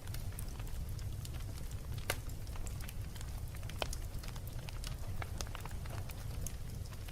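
Wood fire burning in a fireplace: a steady low rumble with frequent irregular crackles and pops, two louder snaps about two and four seconds in.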